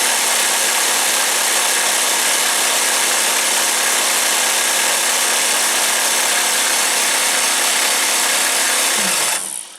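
Electric jigsaw mounted under a homemade scroll-saw table running steadily, then switched off about nine seconds in, its pitch dropping briefly as it winds down.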